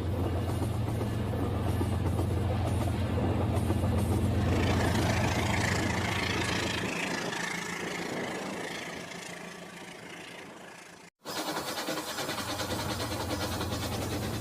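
Battery-powered Rail King toy train running on its track with a steady motor hum. The hum drops away about seven seconds in and the running sound fades. About eleven seconds in it cuts out abruptly, and the same hum resumes a moment later.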